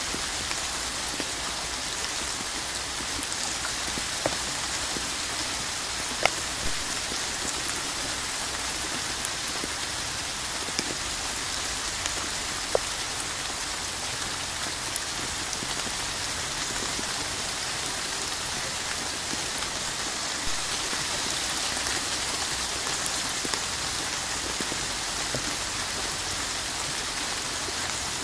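Steady rain, a dense even hiss, with a few louder single drops ticking out of it now and then.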